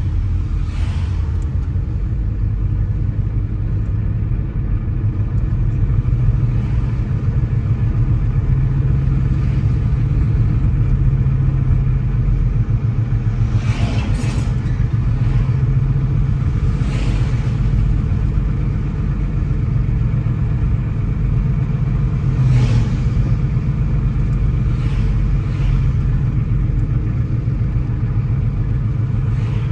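Car driving along a road: a steady low rumble of engine and tyre noise, with a few brief sharp ticks or knocks from time to time.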